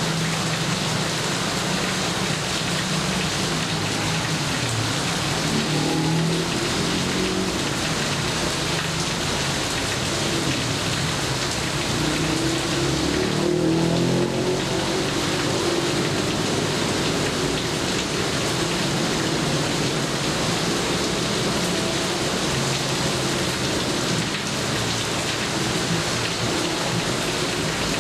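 Steady heavy rain, with a low rumble of thunder swelling about halfway through.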